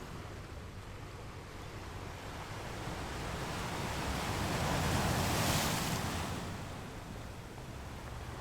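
Ocean surf: one wave builds about three seconds in, breaks and washes loudest about five and a half seconds in, then falls back to the steady hiss of the sea.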